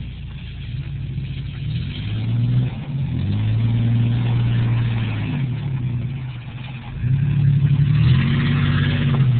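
Truck engine revving in repeated surges, its pitch rising, holding and dropping, as it is driven hard off-road; the loudest surge comes near the end.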